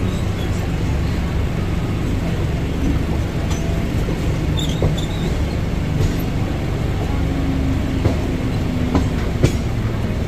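Mumbai suburban local train running, heard from its open doorway: a steady rumble of wheels on rail, with a few sharp clacks in the last couple of seconds.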